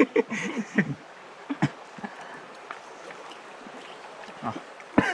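A voice trails off in the first second, then a faint steady outdoor hiss with a few light clicks.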